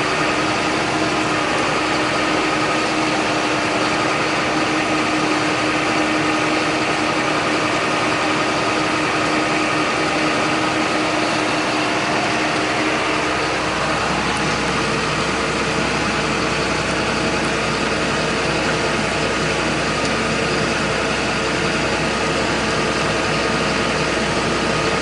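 John Deere 8100 tractor's six-cylinder diesel engine running steadily. About halfway through, its tone steps up in pitch and a deeper rumble comes in.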